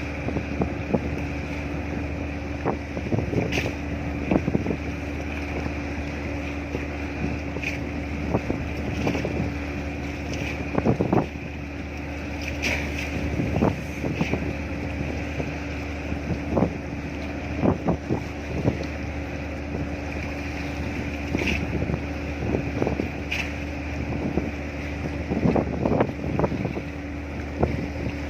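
A vessel's engine droning steadily, with wind buffeting the microphone in repeated irregular gusts.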